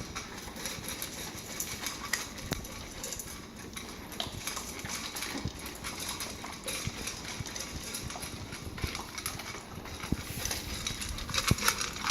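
Pets eating from their bowls: irregular chewing, with scattered short clicks and knocks throughout.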